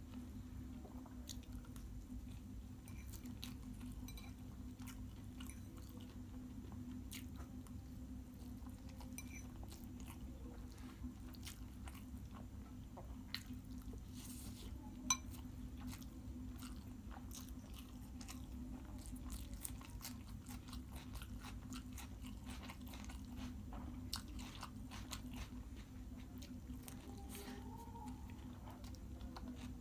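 Close-up mouth sounds of a person eating Maggi noodles and boiled egg: chewing, with many small wet clicks and smacks and one sharper click about halfway. A steady low hum runs underneath.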